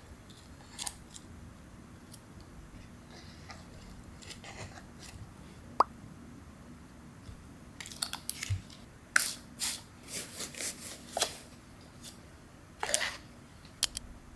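Kitchen handling sounds of food preparation: scattered light taps, clicks and rustles, with one sharp click about six seconds in and a busier run of clicks and rustles in the second half, over a faint steady hum.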